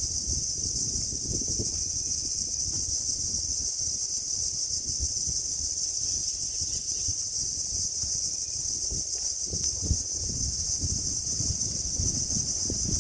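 Steady, high-pitched chorus of insects over a low, irregular rumble.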